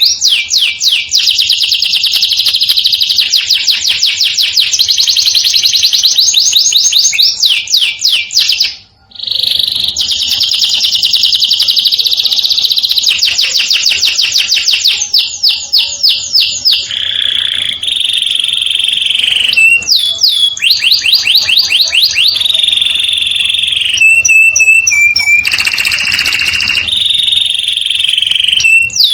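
Domestic canary singing loudly in long, very rapid trills (rolls), with held single-pitch notes and higher whistles in the second half; the song breaks off briefly about nine seconds in.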